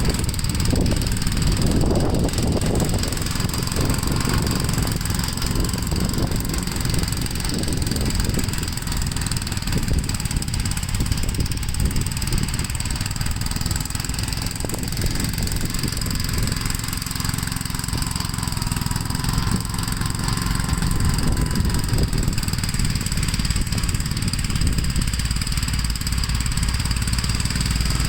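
Gravely L8 walk-behind tractor's single-cylinder engine running steadily while it plows snow, the pitch dipping and rising a little as the load changes.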